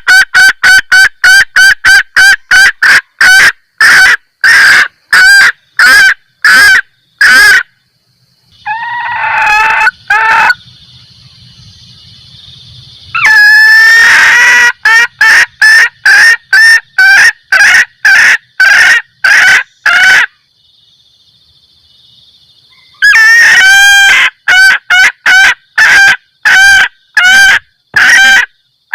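Junglefowl hen's 'kekek' mating cackle, used as a lure call for males: runs of short, sharp notes that come quickly at first and then slow down. The runs are broken by pauses of a few seconds.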